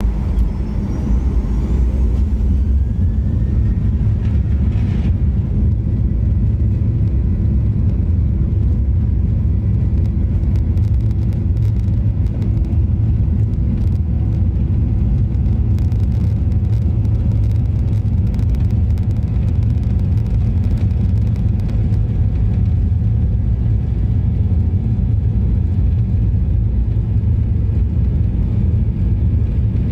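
Boeing 737-900ER's CFM56-7B turbofan engines at takeoff thrust: a loud, steady roar and deep rumble, with faint rising whines in the first few seconds as the engines spool up.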